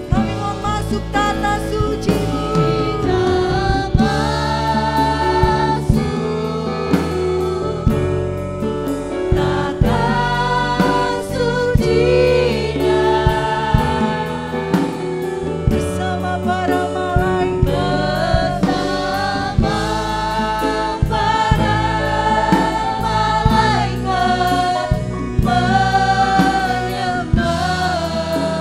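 Gospel worship song: a group of singers holding long sung notes over a band with drums.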